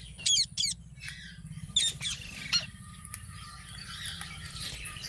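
Pet green parakeet giving about four short, sharp squawks in the first two and a half seconds, then falling quiet.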